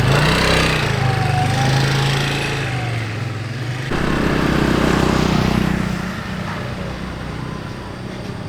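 SYM Attila scooter engine running after its repair, no longer needing the kick-starter; the note changes about four seconds in, then the sound gradually gets quieter.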